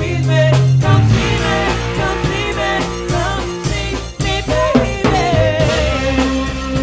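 A band playing a song: a drum kit keeps a steady beat with rimshots and bass drum over held bass notes, with a singing voice over the top.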